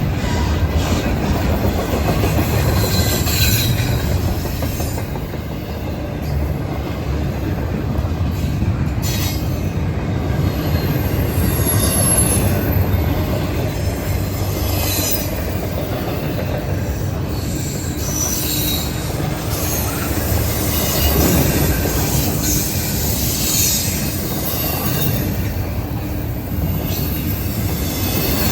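Norfolk Southern freight train's cars rolling past on the rails, a steady rumble of wheels on track with high wheel squeal coming and going.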